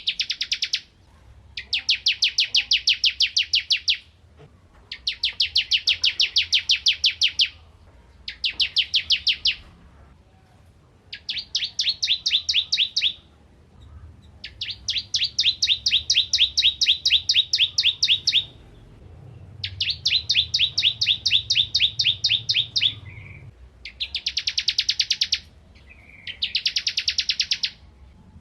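Bar-winged prinia (ciblek kristal) singing: about nine phrases of fast, evenly repeated sharp notes, each lasting one to four seconds, with short pauses between them.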